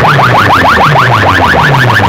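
Electronic siren-style sound effect played loud through a DJ speaker system: a rapid string of short rising chirps, about ten a second, over a deeper sweeping tone that repeats about twice a second.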